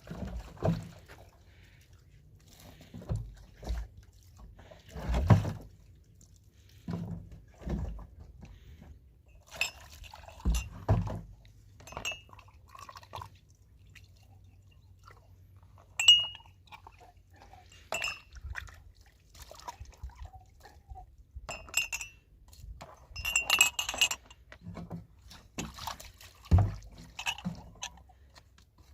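Irregular clinks and knocks of dishes and glassware being handled, some clinks ringing briefly.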